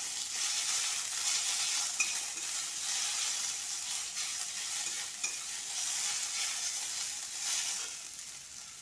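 Onions and ginger-garlic paste sizzling in hot oil in an aluminium kadhai, stirred and scraped by a flat metal spatula with a few light clicks of metal on the pan. Near the end the stirring stops and the sizzle gets quieter.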